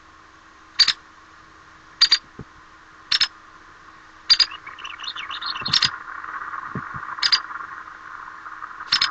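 White-headed woodpecker giving its sharp two-note call about once a second, seven times, with a brief softer chatter around the middle. A steady hiss sits underneath and grows louder about halfway through.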